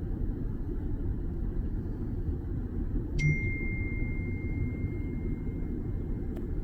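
Steady low rumble. About three seconds in, a sharp tick is followed by a single clear ringing tone that fades away over about three seconds.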